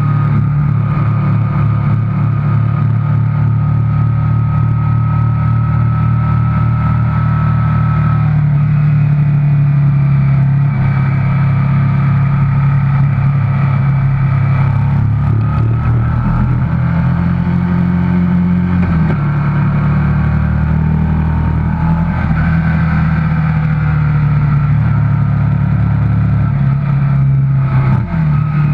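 Classic pre-1982 racing motorcycle engine running hard at high revs on track, heard from on board the bike. The engine note steps in pitch about a third of the way in and again past halfway, with a brief dip in level near the end.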